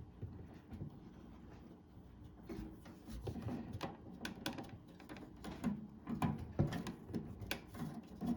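Plastic clicks and knocks of a one-piece wire connector housing being slid onto a microwave door switch and the wiring being handled. The clicks are irregular and grow more frequent after the first couple of seconds.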